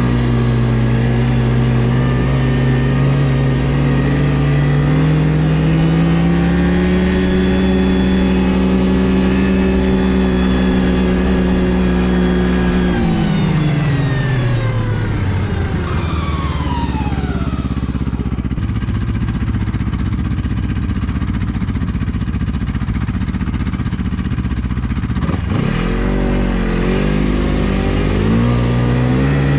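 Ski-Doo GSX 600 HO two-stroke twin snowmobile engine running under throttle, its pitch climbing a little and holding. About halfway through the revs drop off as the throttle is released and it runs low for several seconds, then the revs climb again near the end.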